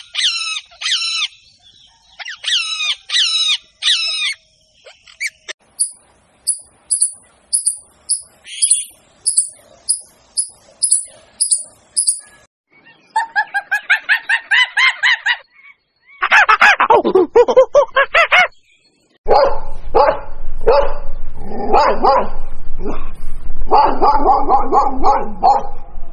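A run of different domestic animal calls, one short recording after another: groups of high chirping calls, then a steady series of high peeps, then longer pitched cries, one falling in pitch, and finally repeated lower calls over a low rumble.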